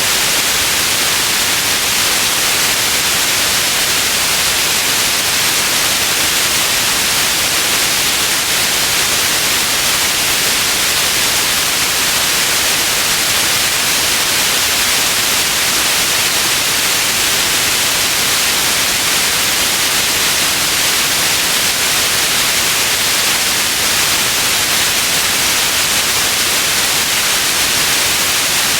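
White noise: a steady, unchanging hiss, strongest in the highs.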